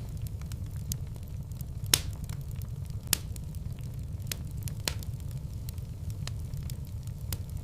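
Wood fire burning in a fireplace: a steady low roar of flames with scattered sharp crackles and pops, two louder pops about two and three seconds in.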